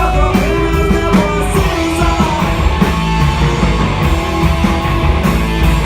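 Live rock band playing an instrumental passage: electric guitars, bass and drums.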